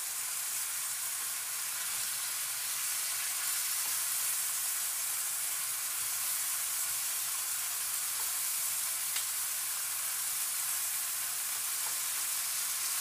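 Shrimp and chicken pieces sizzling steadily in a nonstick frying pan as a plastic spatula turns them, with a faint tap of the spatula now and then.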